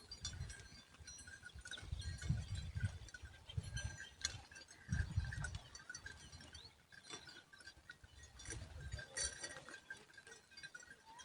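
Outdoor bird sounds: many short high chirps and chips, some repeated rapidly, with a few brief gliding calls, over a gusty low rumble.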